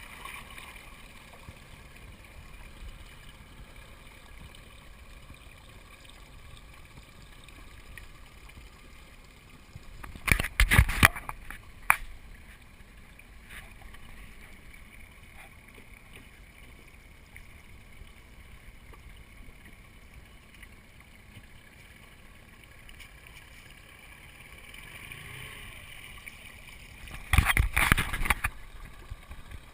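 Steady water and boat noise from a small boat under way. It is broken twice by a second-long cluster of loud knocks, about ten seconds in and again near the end.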